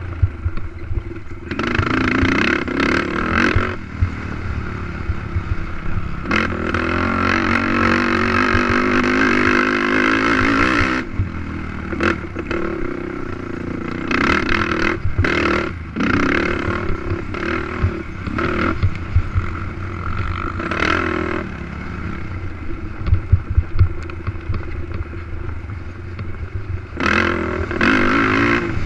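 Race ATV engine revving hard and letting off in bursts, with a long stretch held at high revs about a third of the way in, over the clatter and knocks of the quad on a rough dirt track.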